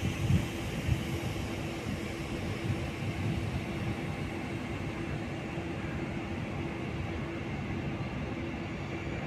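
A train at a railway station: a steady low rumble with a constant hum, and a few heavier low thumps near the start.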